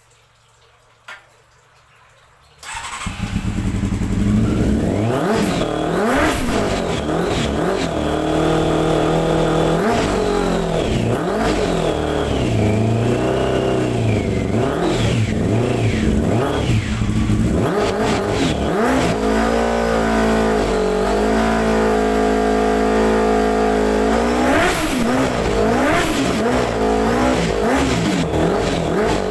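Honda 600 cc motorcycle engine starting about two and a half seconds in, then running and being revved again and again in short blips, rising and falling in pitch. It holds a steadier, lower speed for a few seconds past the middle before more revving near the end.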